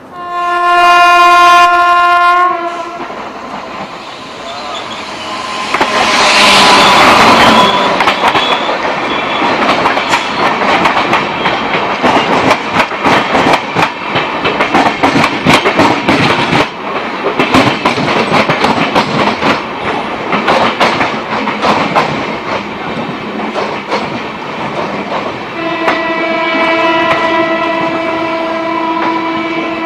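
Indian Railways locomotive horn sounds for about two seconds, then a train passes close by, its wheels clattering over the rail joints for about twenty seconds. Near the end a locomotive horn sounds again and holds.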